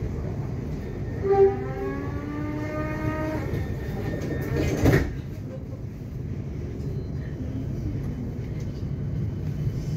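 Melbourne suburban electric train running, heard from inside the carriage: a steady low rumble of the wheels on the track. About a second in, a pitched tone with several overtones sounds for about two seconds, gliding slightly upward. Near the middle, a short loud rush of noise stands out.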